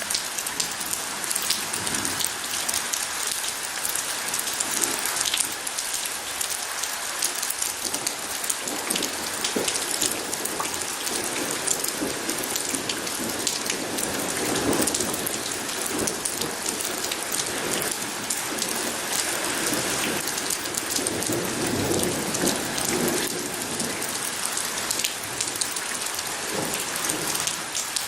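Steady heavy rain pattering on surfaces, with low rolls of distant thunder swelling up about halfway through and again later.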